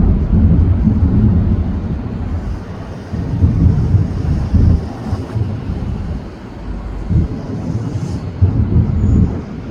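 Fireworks bursting, a dense run of low booms and rumbles with an irregular series of louder peaks, the first a sharp bang right at the start.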